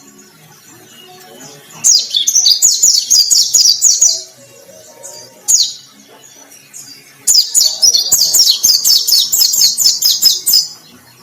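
White-breasted white-eye singing in full voice: two long runs of rapid, high chattering notes, the first about two seconds long and the second about three, with one short call between them.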